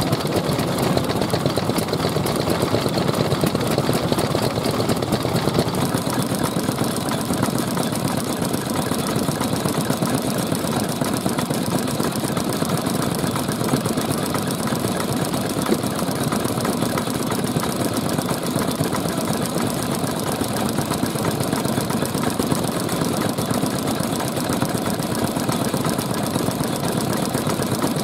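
Old stationary petroleum engines (hatsudōki) running steadily, with a fast, even chugging and no let-up.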